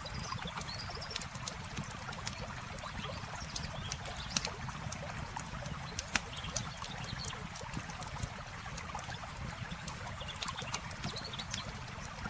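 Campfire crackling, with sharp pops scattered irregularly (the loudest about four and six seconds in), over the steady rush of flowing river water. A few faint bird chirps come and go.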